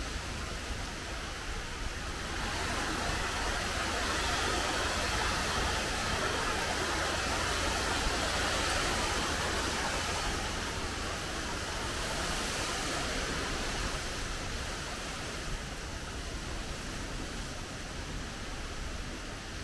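Typhoon rain and wind: a steady hiss of heavy, wind-driven rain that swells in a gust from about two seconds in and eases again after about thirteen seconds, over a low rumble.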